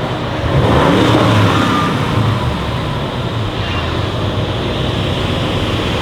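Audi RS7 Sportback C8's twin-turbo V8 running, swelling louder and higher in pitch about half a second in, loudest for about a second, then easing to a steady lower run.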